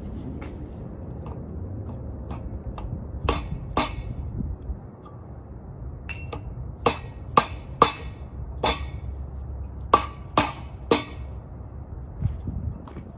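A hammer striking metal: about a dozen sharp knocks at uneven intervals over a steady low hum, aimed at a piston jammed in the cylinder bore of a Honda F22C engine whose connecting rod broke.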